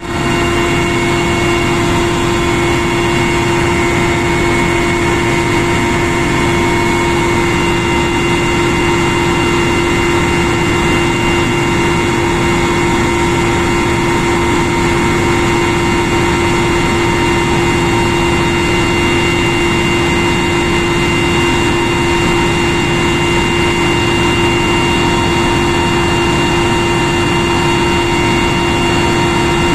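Military helicopter in cruise flight, heard from inside the cabin: a steady roar of turbine engines and rotor with several constant high whining tones from the gearbox and turbines, unchanging throughout.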